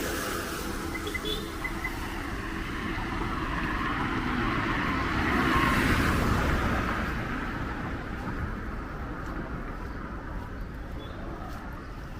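A road vehicle passing on the wet street: its engine and tyre noise grows, is loudest about halfway through, then fades away, over a steady background of traffic.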